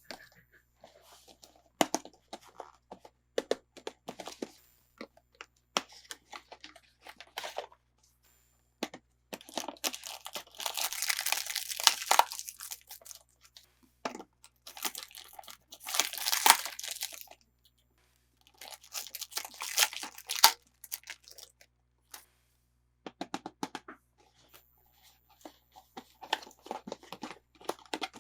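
Doll toy packaging being handled and torn open by hand. Scattered sharp clicks and taps come first, then several stretches of a few seconds each of dense tearing and crinkling.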